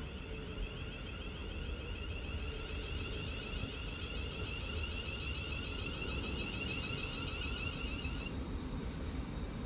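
Class 350 Desiro electric multiple unit approaching along the track with a steady low rumble. A high, rapidly pulsing tone runs alongside and cuts off suddenly about eight seconds in.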